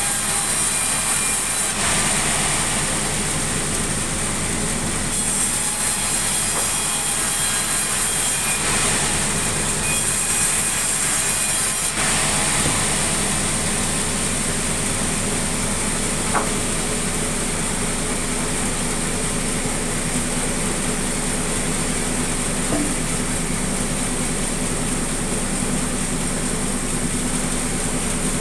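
Sawmill saw running steadily over a low motor hum, cutting sengon timber.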